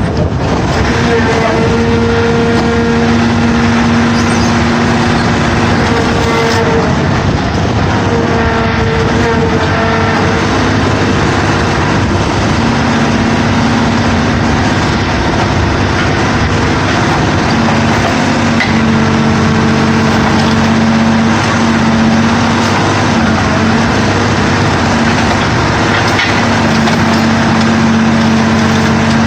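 Sierra 4200 scrap-car baler running under load, its engine and hydraulics going steadily while it bales a car. A pitched hum drops out and comes back several times as the load changes.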